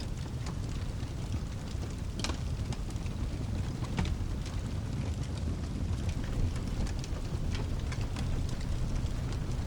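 Fireplace crackling with scattered sharp pops over a steady low rumble, mixed into a rain-and-thunder ambience.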